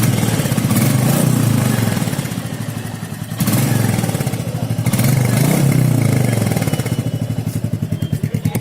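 Royal Enfield Meteor 350 single-cylinder engine running through its stock exhaust with a thudding pulse. Revs sag for a moment and then pick up sharply about three and a half seconds in, with further swells of throttle after that.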